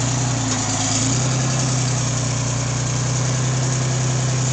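An engine running steadily at a low, even hum, its tone shifting slightly about a second in.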